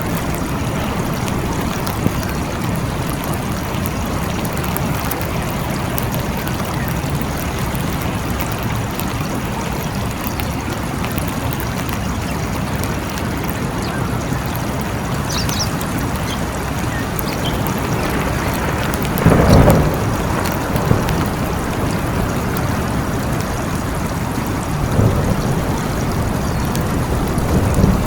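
Steady, heavy rain falling in a forest. About two-thirds of the way through comes a short, louder thud, with smaller bumps near the end.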